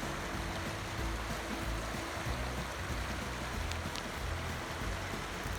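Steady hiss of water, with an uneven low rumble underneath.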